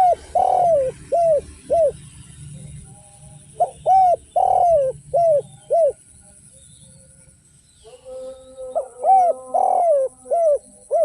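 Spotted dove (derkuku) singing: three cooing phrases, each a quick run of about five coos with one longer note among them, near the start, around four seconds in and near the end.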